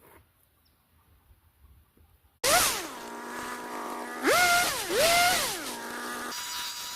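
Mostly quiet for the first two and a half seconds, then a chainsaw engine starts up suddenly and is revved up and down twice before settling back.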